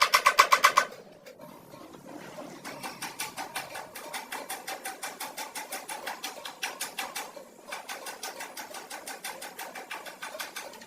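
Rapid, rhythmic tapping on metal, several ringing strikes a second. It is loudest in a short burst at the start, then goes on more quietly and evenly with a brief pause past the middle.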